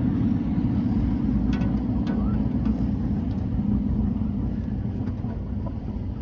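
Race car engines running on a dirt oval: a steady low drone of several engines that eases slightly near the end.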